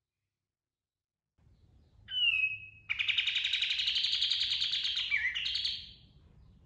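Kapas tembak songbird singing: one short high call about two seconds in, then a long, fast, rolling trill (ngerol) lasting about three seconds that ends in a last sharp note.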